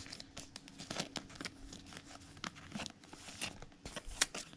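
Baseball trading cards handled by hand as they are flipped through: an irregular run of light rustles and small clicks, with a sharper click a little past four seconds in.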